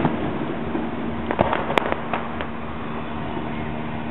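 Aerial fireworks: a quick cluster of about six sharp pops and bangs about a second and a half in, the loudest near two seconds, then a steadier stretch of background noise.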